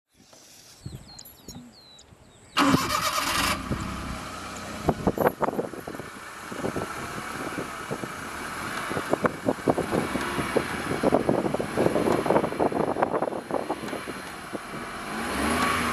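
An old car's engine is cranked and catches with a sudden loud burst about two and a half seconds in. It then runs unevenly, with repeated revs and spikes as the accelerator pedal is pumped.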